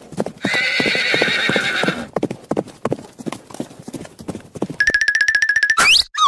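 Horse sound effects: a wavering neigh, then clip-clopping hoofbeats. Near the end come a fast run of even clicks with a steady whistle-like tone and two quick rising whistles.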